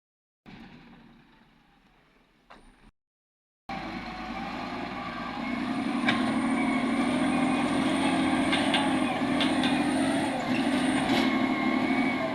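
Heavy vehicle engine running steadily after a few seconds of dead silence from cuts. It grows louder about two seconds after it comes in, then holds.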